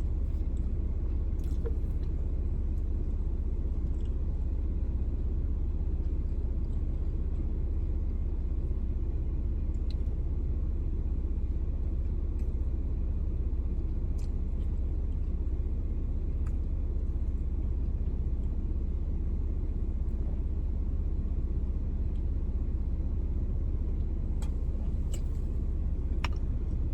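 Steady low rumble of a car, heard from inside the cabin, with a few faint clicks scattered through it.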